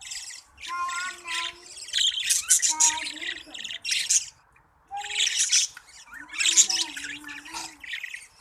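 A group of pet budgerigars chirping and chattering in rapid, overlapping bursts, with a short lull a little past the middle.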